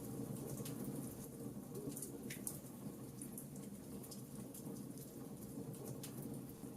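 Wood bonfire crackling, with scattered sharp pops and ticks over a low steady rumble.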